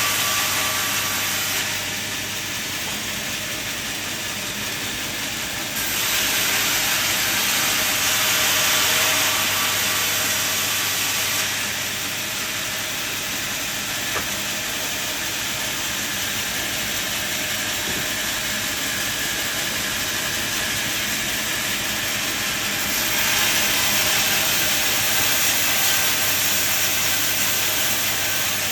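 Sawmill machinery running, a steady noisy saw-and-motor sound over a constant low hum. Its loudness steps abruptly down and up a few times.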